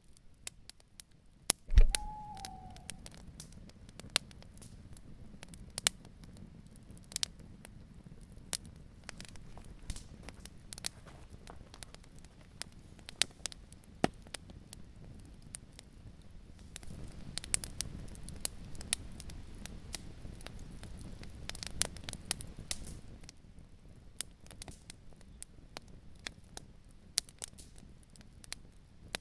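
Campfire crackling, with frequent sharp pops and snaps throughout. A loud low thump comes about two seconds in, followed by a brief falling tone, and a low rushing sound, typical of wind, swells in the second half before easing near the end.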